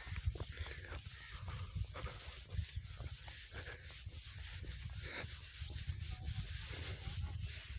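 Low rumble on the microphone with irregular rustling and scattered soft clicks.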